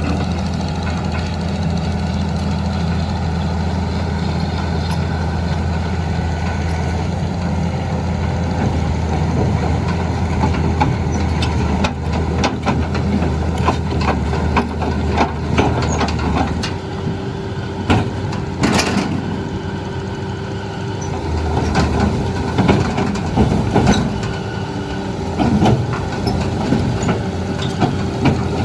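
Heavy diesel machinery engine running steadily; from about halfway through, a steady whine sets in with a run of metal clanks and knocks.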